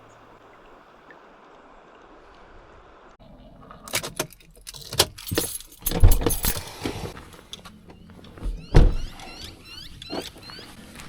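Rattling, clinking and knocking of gear being handled, with two heavy thumps about six and nine seconds in, after a few seconds of faint hiss.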